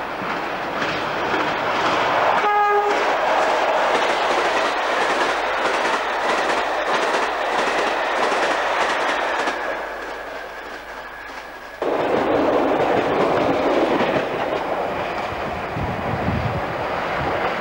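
Diesel express train passing at speed through a station, its InterCity coaches rushing past with steady rail and wheel noise. A short horn blast comes about two and a half seconds in. About twelve seconds in the sound changes abruptly to a rushing noise with wind buffeting the microphone.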